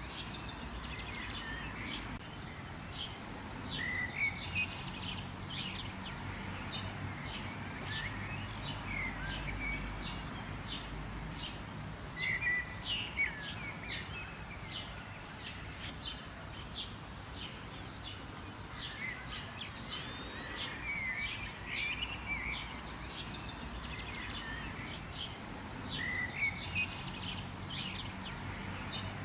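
Wild songbirds chirping and twittering: quick, high, clipped chirps that repeat in rapid runs, mixed with short warbling notes, over a steady faint low background hum.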